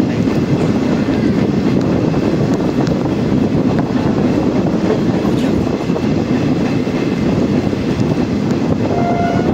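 Steady running noise of a moving passenger train heard from an open coach doorway: a continuous rumble of wheels on rail mixed with rushing air. A brief faint tone rises above it near the end.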